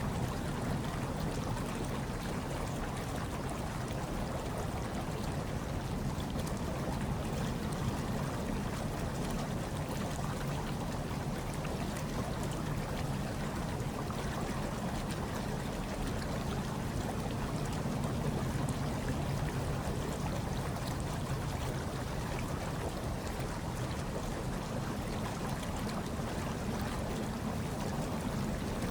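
Hot tub water bubbling and churning in a steady, even low rush, with a soft hush of snowstorm wind over it.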